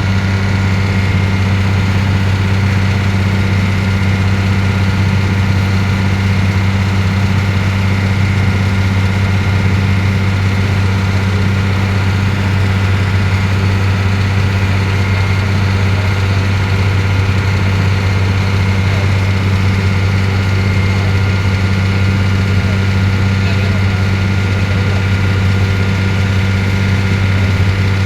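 Ferry boat engine running with a steady, unchanging low drone.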